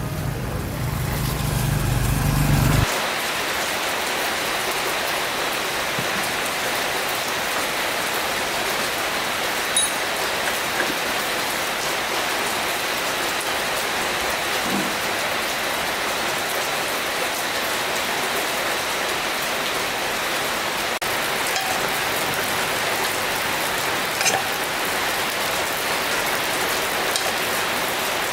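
A low humming drone cuts off abruptly about three seconds in. It leaves a steady rushing hiss of water that runs on evenly, with a few faint ticks.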